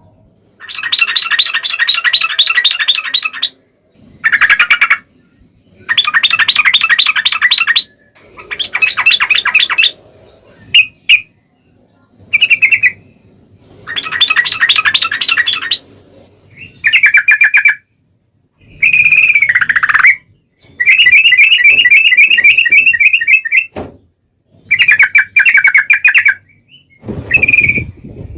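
Yellow-vented bulbul (trucuk) singing: about a dozen loud phrases of rapid bubbling notes, each one to three seconds long, with short pauses between them.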